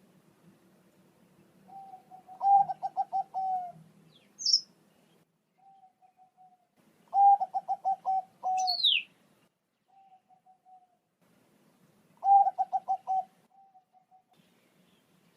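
Bangkok-type zebra dove (perkutut) cooing: three loud phrases of quick stuttering coos, each ending in a drawn-out note, come about every five seconds, with fainter short coos between them. Two brief high whistles cut in, about four and a half seconds in and again near nine seconds, the second sweeping steeply down.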